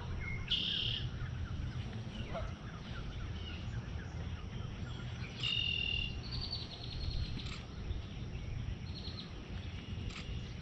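Red-winged blackbirds singing in a wetland, short buzzy phrases about half a second in and again around five to seven seconds and near nine seconds, over a steady low rumble.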